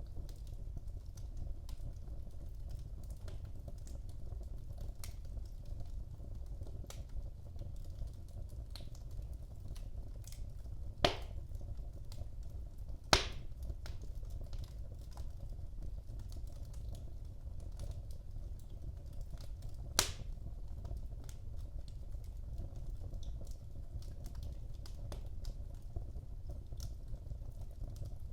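Wood fire burning in a fireplace: a steady low rumble with many small scattered crackles, and three louder sharp pops, about 11, 13 and 20 seconds in.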